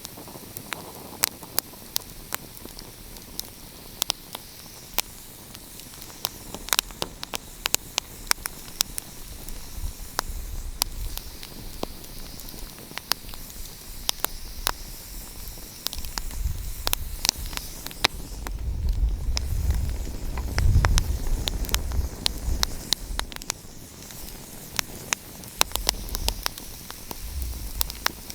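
Wood fire crackling, with frequent sharp irregular pops over a steady hiss. About halfway through a deep low rumble swells for several seconds and then fades.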